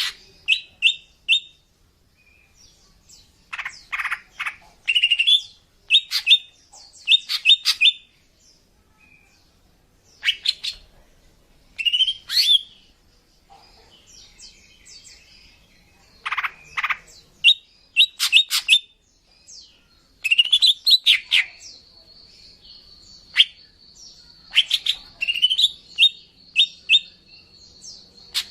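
Female cucak ijo (green leafbird) calling: short sharp chirps and clipped rising whistles in irregular bursts. In the second half a thin, steady high note is held for several seconds. These are the female calls used to lure male birds.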